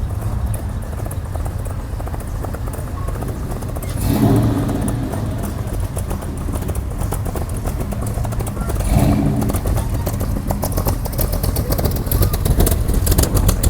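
Classic cars and trucks rolling past at low speed, their engines running with a steady low rumble. A louder engine with rapid exhaust pulses comes up near the end.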